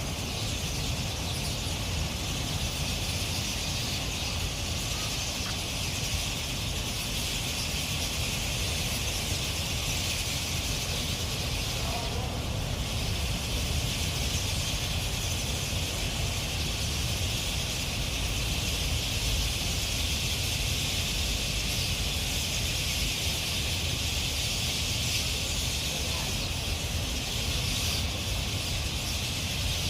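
A large gathered flock of birds chirping all at once, making a dense, unbroken high chorus, over a low steady rumble.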